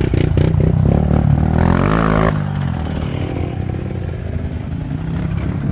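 A 110cc pit bike engine running while being ridden. The revs climb about a second and a half in, then drop back, and it runs on at a steadier pitch.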